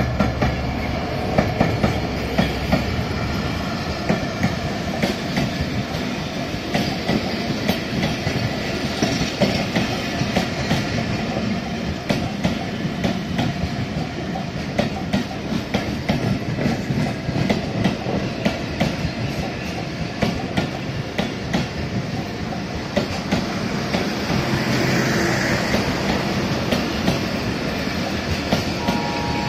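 Passenger coaches of an express train rolling past on broad-gauge track: a steady rumble, with steel wheels clicking rapidly over rail joints in a continuous clickety-clack.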